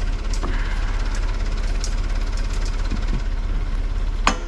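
Backhoe engine running steadily at a low drone, with scattered light clicks. Near the end a loud sharp knock starts a series of repeated knocks, about two or three a second.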